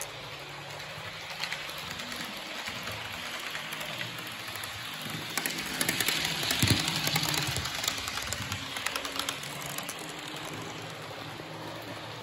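Class 444 electric multiple-unit train passing: its rushing noise swells to a peak about six to seven seconds in and then fades. A quick run of clicks from the wheels over the rail joints comes through the loudest part.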